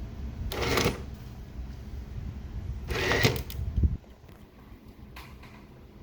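Gemmy animated coffin prop's motor and moving mechanism running with a low rumble and two loud rattles, then stopping abruptly about four seconds in; the prop's sound unit is silent and needs repair.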